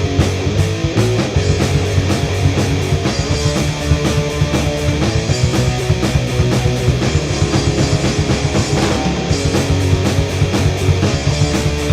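Instrumental rock music with no vocals: guitar and a drum kit keeping a steady beat over a heavy low end.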